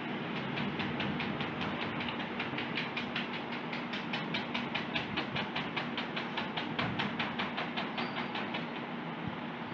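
Oil-paint brush dabbing rapidly on stretched canvas, an even run of light taps about five a second that stops near the end, over a steady low hum.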